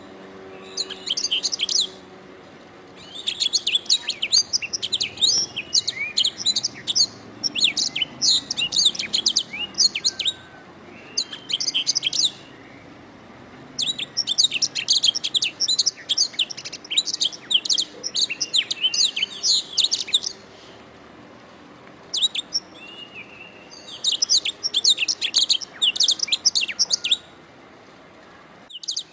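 Canary singing in fast, high, chirping and trilling phrases of a few seconds each, broken by short pauses.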